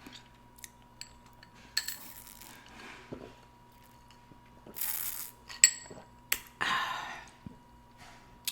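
Close-miked eating sounds: scattered mouth clicks and light clinks of dishes and utensils, with three short noisy bursts about two, five and seven seconds in.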